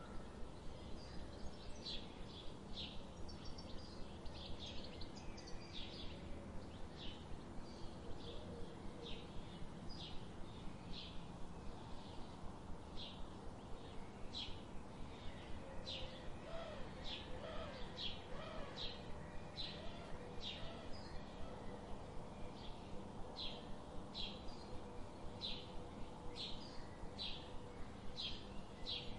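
A bird chirping over and over in short, high, evenly spaced notes, about two a second, with a few lower gliding calls from another bird in the middle. A faint steady hum lies underneath.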